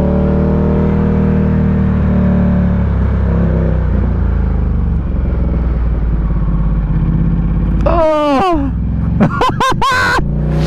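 Ducati Diavel 1260's V-twin engine running under steady throttle. About eight seconds in the revs fall sharply, then rise and fall several times in quick succession near the end.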